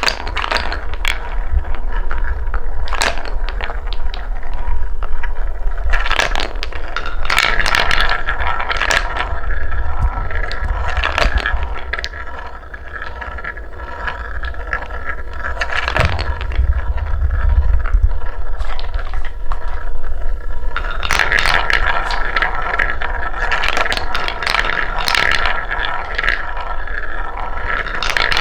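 Wooden balls rolling down a wooden marble run track: a low rolling rumble with many quick clicks and clacks as the balls knock along the track and into each other. The run is busier and louder in two stretches, with a quieter spell around the middle.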